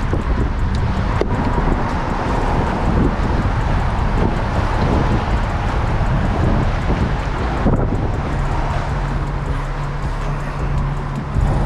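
Wind buffeting the microphone in a steady loud rumble. A steady low hum joins in about eight seconds in and holds.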